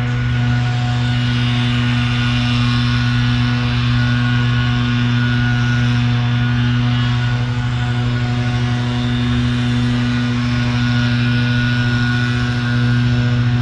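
A steady engine hum, holding one pitch without revving.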